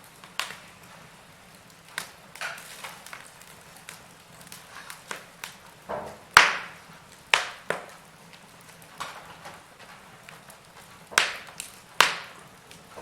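Wood fire in a fireplace crackling: irregular sharp pops and snaps over a faint steady hiss, the loudest pop about halfway through and two more strong ones near the end.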